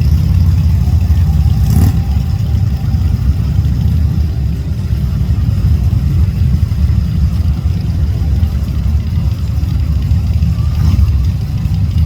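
Motorcycle engine running with a steady, loud low rumble, mixed with wind noise, and a brief click about two seconds in and again near the end.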